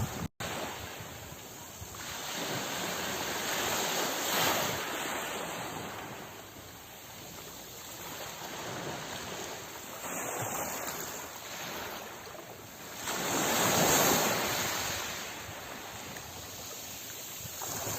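Sea waves breaking and washing up a shore, the surf rising and falling in slow surges, with the biggest swell about three-quarters of the way through. The sound cuts out for a split second just after the start.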